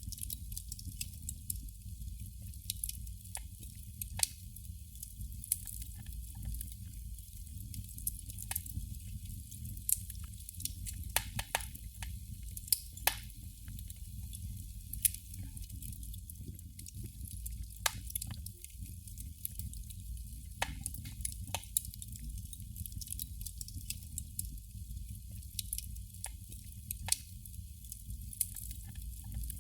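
Candle flame crackling: irregular small pops and ticks, a few sharper than the rest, over a steady low rumble.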